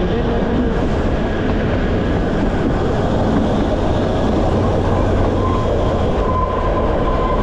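Kalka–Shimla narrow-gauge train running: a steady rumble and rattle of the coach on the rails. A thin whine joins in near the end.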